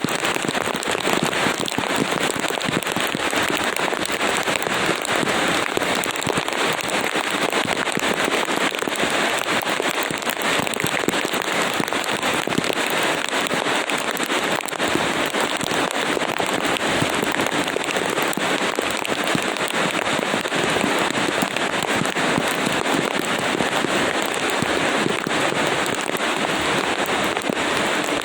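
Rain falling steadily: a dense, even patter of many drops with a crackly edge, unchanging throughout.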